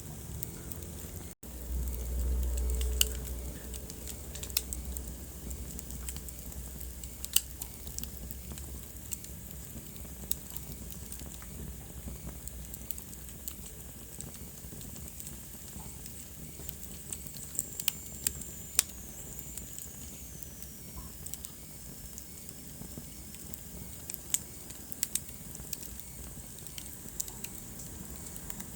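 Wood fire burning in a fireplace: a steady soft hiss of flame with scattered sharp crackles and pops from the logs. A louder low rumble of the flames comes about two seconds in, and a faint high whistle slides down in pitch about two-thirds of the way through.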